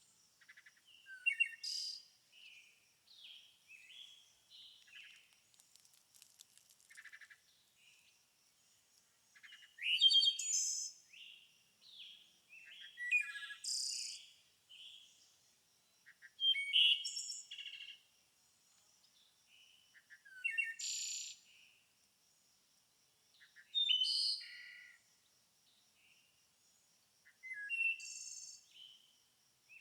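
Birds singing and calling, with bursts of chirps and whistled phrases every three to four seconds over a faint, steady, high-pitched tone.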